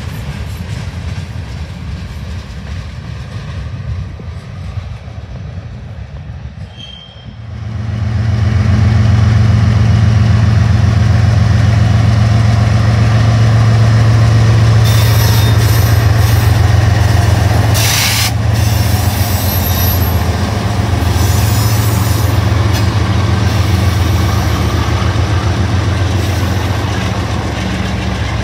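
Freight cars rolling past with wheels clicking over the rail joints. About seven seconds in, after a cut, BNSF GE diesel-electric locomotives, including a Dash 9-44CW, pass close by with a loud, steady engine drone. Partway through there is a single sharp bang.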